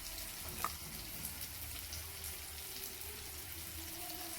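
Oil and onions sizzling faintly and steadily in a frying pan, with a few light clicks.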